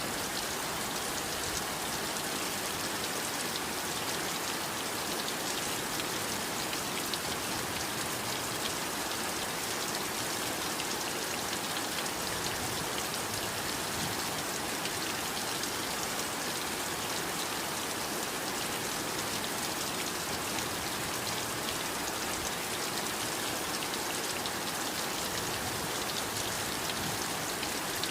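Steady heavy rainfall, a dense even hiss of many drops with fine pattering, unbroken and without thunder.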